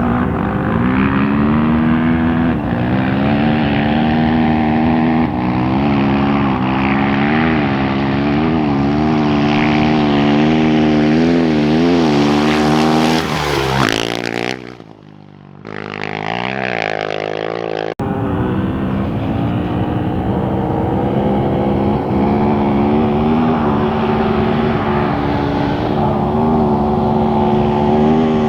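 Off-road racing motorcycle engines running hard, the pitch wavering up and down with the throttle. About halfway through, the engine note climbs sharply and then falls away for a couple of seconds. After an abrupt cut the engine sound is back, running the same way.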